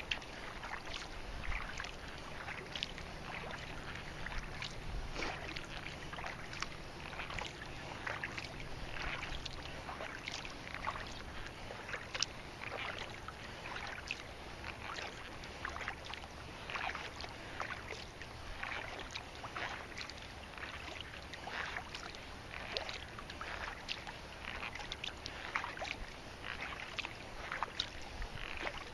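Kayak paddle dipping and pulling through water, with repeated small splashes and drips.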